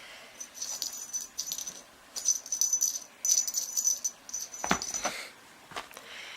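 A small jingle bell rattling in a series of short shakes, followed by a couple of sharp knocks near the end.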